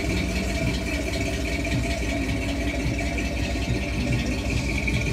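A car engine idling: a rapid, even low pulsing, with a steady high whine over it.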